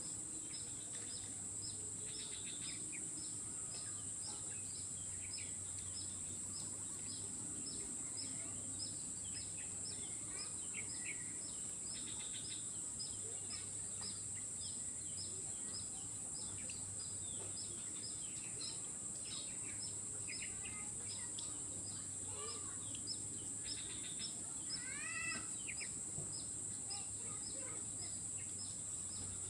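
Outdoor ambience of insects and birds: a steady high-pitched insect drone with a repeating ticking call about twice a second, and scattered bird chirps, one call louder about 25 seconds in.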